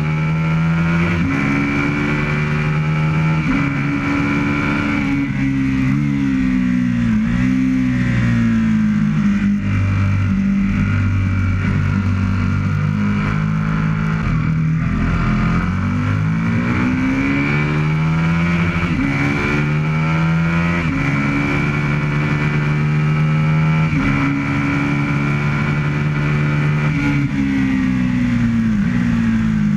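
Aprilia RSV Mille's 998 cc V-twin engine heard from on board at high revs with wind rush. It drops in pitch as the bike slows for a corner partway through, then pulls hard up through the gears, stepping at each shift, to over 200 km/h near the end.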